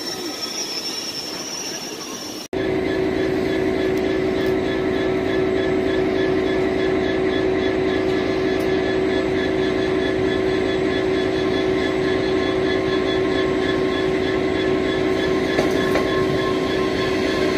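A train's steady mechanical drone with a strong low hum and a few fixed higher tones, starting abruptly at a cut about two and a half seconds in. Before the cut there is a quieter rumble with a high thin whine.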